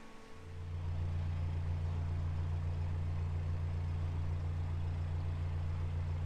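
A steady low mechanical drone starts about half a second in and holds level throughout.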